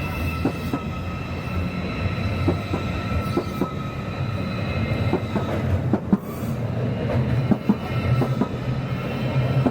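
A train moving along the station tracks, its wheels giving a steady, high-pitched metallic squeal over a low running hum. Irregular clicks of the wheels over rail joints and points come through throughout.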